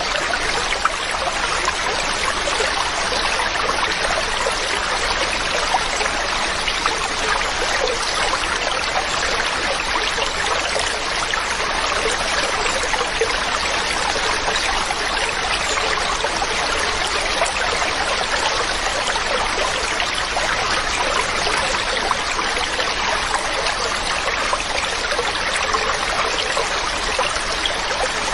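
A mountain stream running steadily over rocks, an even rushing and splashing of water.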